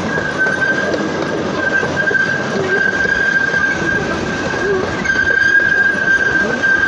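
Freight train running, heard from aboard a car: a steady rumble and rattle under a continuous high wheel squeal, with more squealing tones joining about five seconds in.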